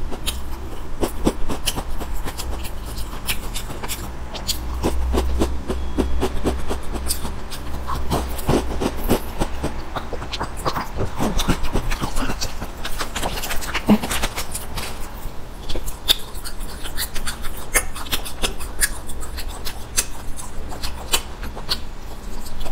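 Crunching and chewing of a chocolate sandwich biscuit: a dense, irregular run of dry crisp crackles, over a steady low hum.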